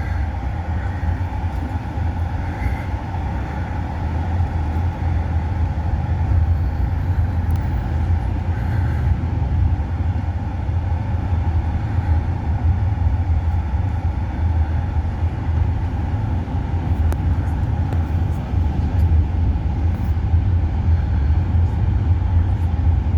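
Small bus driving, heard from inside the cabin: a steady low engine and road rumble.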